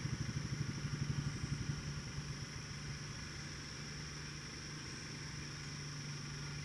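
An engine, most like a passing car or motorcycle, running with a low pulsing hum that fades over the first couple of seconds and settles to a quieter steady drone.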